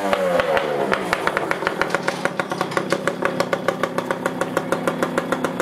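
Kawasaki KX65 two-stroke single-cylinder dirt bike engine dropping from a rev back to idle, then idling with an uneven popping, about seven pops a second.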